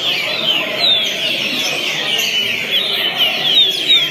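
Green-winged saltator (trinca-ferro) singing a continuous, dense run of short, downward-slurred whistled notes: the 'fuim' song type typical of southern birds.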